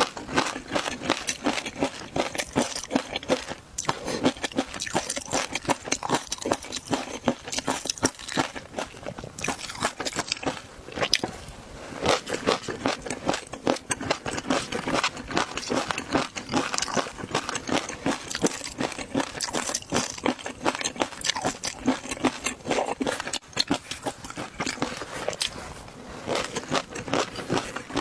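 Someone chewing crunchy food close to the microphone: a dense run of quick crunches and crackles, with a couple of short pauses between mouthfuls.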